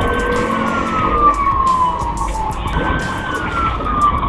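Police car siren wailing: the pitch holds high, slides slowly down, then climbs again about three seconds in and slides down once more, over steady road noise.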